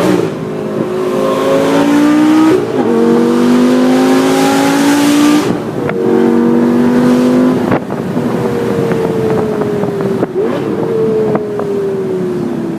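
Lamborghini Gallardo Spyder's V10 through a Larini sports exhaust, accelerating up through the gears: the note climbs in three runs with a brief break at each gear change, then falls steadily as the car slows over the last few seconds.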